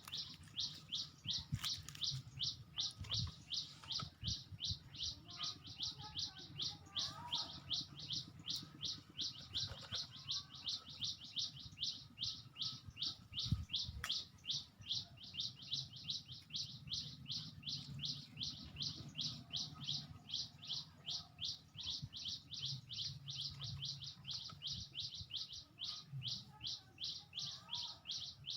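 A small bird calling a short, high, downslurred note over and over, about three or four times a second, steady and unbroken.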